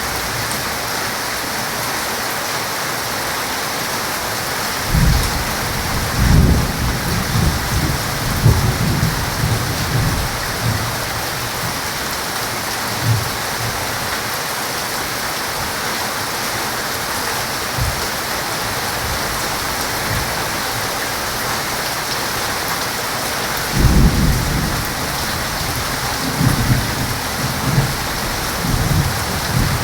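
Heavy rain falling in a steady hiss, with thunder rumbling low about five seconds in for several seconds and again near the end.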